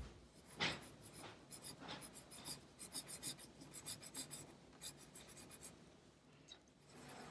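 Pencil drawing on paper: a run of faint, short scratchy strokes that thins out about six seconds in.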